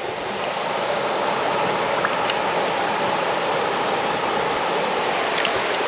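A mountain stream rushing steadily while a plastic soda bottle is held in the current and filled with water.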